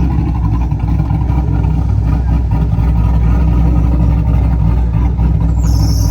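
Car engines running, a steady low rumble. A short high squeal comes in near the end.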